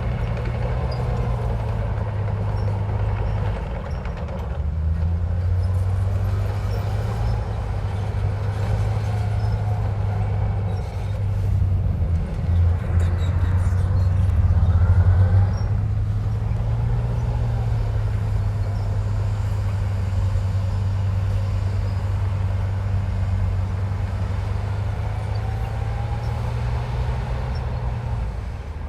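Komatsu bulldozer's diesel engine running steadily under load, its pitch shifting now and then and growing louder about halfway through, with faint wavering squeaks over it.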